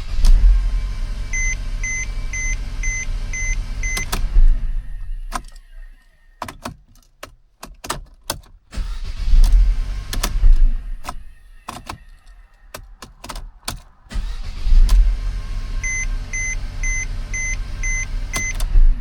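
The 2012 Mercedes-Benz C250's 1.8-litre turbo four-cylinder is started three times on its newly fitted starter, each time starting and running for a few seconds before being shut off, which shows the no-crank fault is cured. A dashboard chime beeps about six times, roughly two a second, during the first and last runs.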